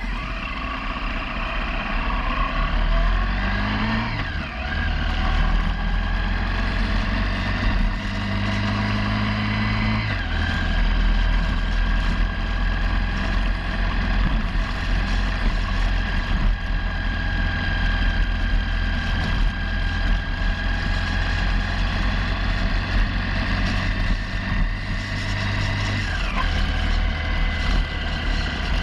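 Motorcycle engine pulling away and accelerating, its pitch climbing and then dropping with gear changes about four and ten seconds in, before settling to a steady cruise with another shift near the end, under steady wind and road noise.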